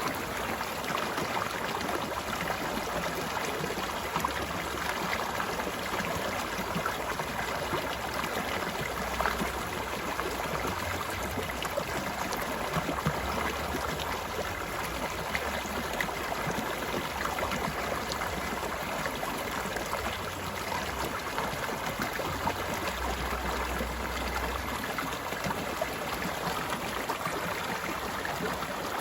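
Water flowing in a stream: a steady rush with scattered small splashes.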